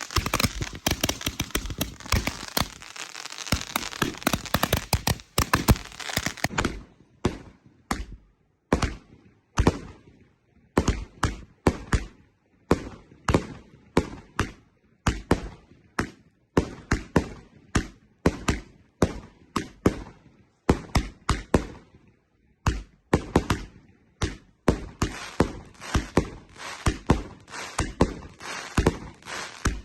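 Fireworks going off. A dense crackling for about the first six seconds, then separate sharp bangs, one or two a second.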